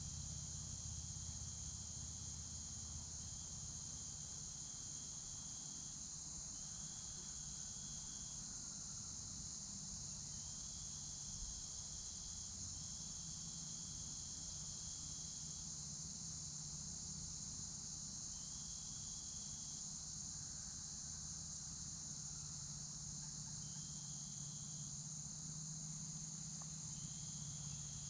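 Outdoor insect chorus: a continuous high buzzing drone, with a second, lower insect trill that starts and stops in spells of one to two seconds, over a low steady rumble.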